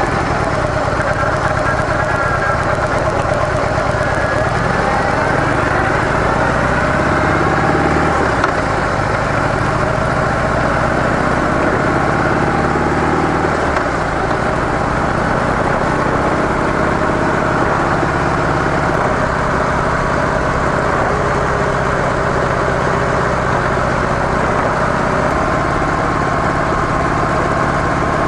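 Harley-Davidson CVO Softail Deluxe V-twin on stock mufflers, running steadily while the bike is ridden, its pitch drifting up and down as the speed changes.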